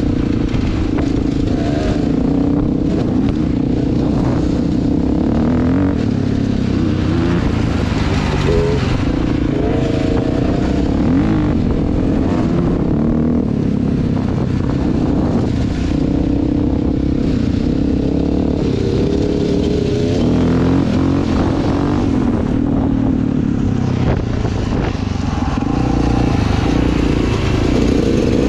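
Dirt bike engine running steadily while riding, its pitch rising and falling repeatedly with the throttle, over a constant rush of noise.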